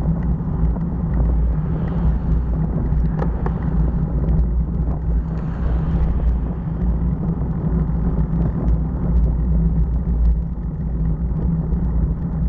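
Motorcycle on the move, a steady low rumble of engine and wind noise that stays even throughout.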